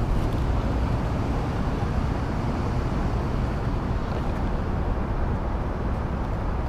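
Steady low rumble with hiss and no distinct events, the kind of noise made by wind on the microphone or by vehicle and road noise.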